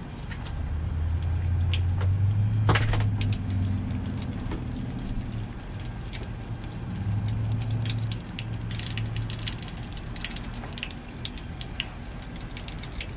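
Hot frying oil in a deep fryer crackling with many small scattered pops. A low hum swells about half a second in and again about seven seconds in.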